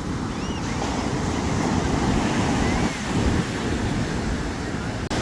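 Sea surf breaking and washing up the beach at night, a steady rushing wash, with wind buffeting the microphone. The sound drops out for an instant near the end.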